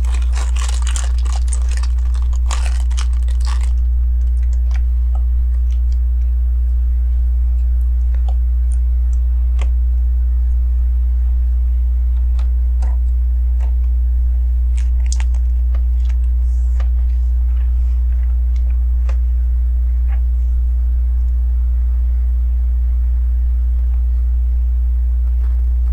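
Plastic LEGO pieces being handled: a dense clatter and rustle for the first few seconds, then scattered single clicks as pieces are picked up and pressed into place. A steady low electrical hum runs underneath.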